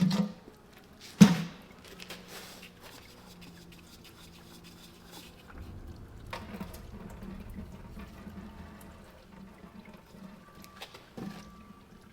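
Two sharp knocks about a second apart, then a quieter stretch of low liquid-like sound.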